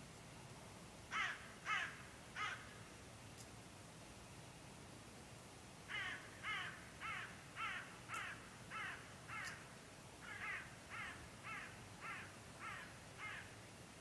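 A bird cawing: three harsh caws about a second in, then a long run of about a dozen more at roughly two a second from about six seconds in, with a brief break near ten seconds.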